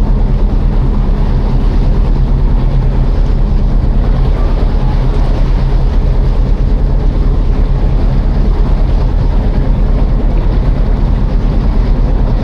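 Passenger ferry's engine running with a steady, loud, low hum.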